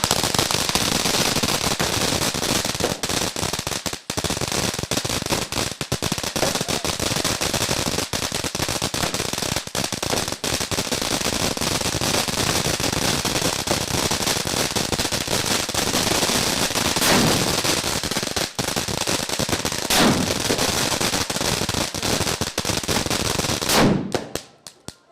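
Firecrackers going off in a dense, rapid, continuous crackle, like machine-gun fire, with a few louder bangs in the second half. The crackle stops abruptly about a second before the end.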